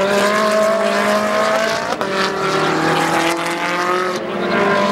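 Ferrari 458 Challenge race car's V8 engine accelerating hard, its note climbing steadily, with a short break about two seconds in and a dip near the end as at gear changes.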